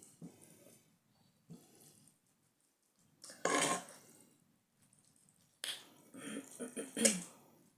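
Close-miked eating of saucy spicy cheese instant noodles: a short wet slurp a few seconds in, then a run of wet slurping and chewing sounds near the end, with quiet gaps between.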